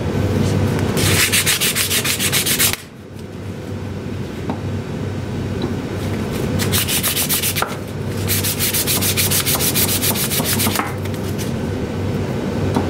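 Used 400-grit sandpaper rubbed rapidly back and forth by hand on the steel motor shaft of a 1930s Delta DP220 drill press, in three quick bursts with softer rubbing between. The shaft is being dressed where it is a little munged, so the new motor bearing will slide on. A steady low hum runs underneath.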